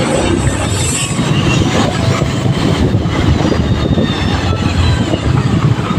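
Wind rushing over the microphone and road noise while a motorcycle is ridden.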